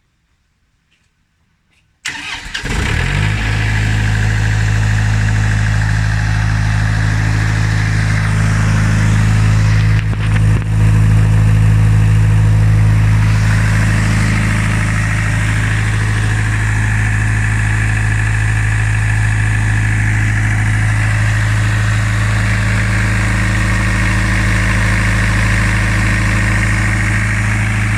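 Diesel engine of a Pramac GBW 22 Y generator set, a Yanmar, starting about two seconds in and catching almost at once, then running at a steady speed with a strong low hum. The generator's canopy is open.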